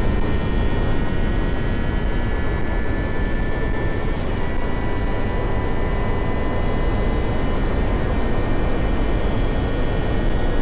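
Motorcycle cruising at a steady speed, its engine giving a steady whine, under heavy wind rumble on the camera microphone.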